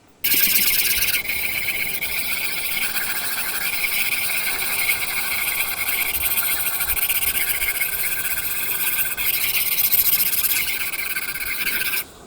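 Apple Pencil tip scratching continuously on an iPad's paper-like screen protector film, a dense, hissy scratching. It starts abruptly and cuts off just before the end.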